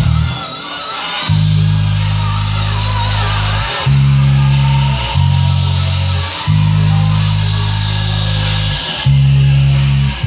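Gospel music with an electric bass guitar playing long held low notes, changing about every one to two seconds after a short break near the start, with guitar above it.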